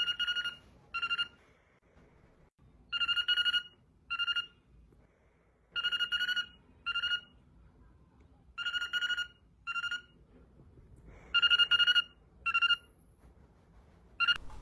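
Trilling telephone-style ringtone, ringing in pairs: a longer trill and then a short one, repeating about every three seconds.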